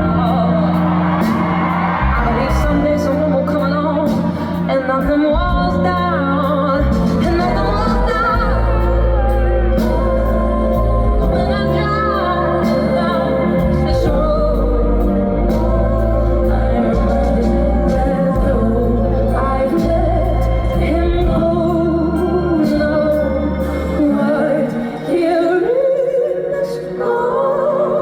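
Live concert sound of a female singer over a band, with a strong, sustained bass line; the bass drops out near the end.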